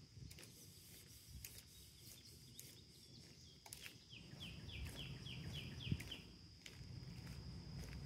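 Faint woodland sound: a bird sings a quick run of about eight down-slurred notes, about four a second, in the middle, over a steady high insect drone. Light footsteps tap on the paved trail.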